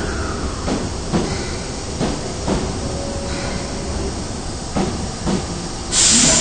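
Osaka Metro 22 series subway train running into the station, its wheels clacking over rail joints in pairs about half a second apart over a steady rumble. Near the end comes a loud burst of air hiss.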